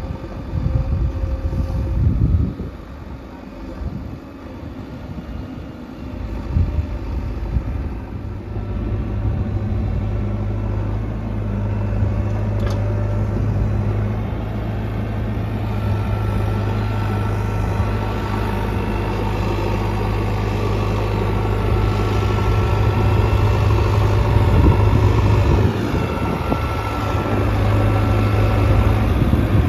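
JCB 3DX Xtra backhoe loader's diesel engine working, uneven at first and then running steadily under load from about eight seconds in, with a faint high whine coming and going in the second half.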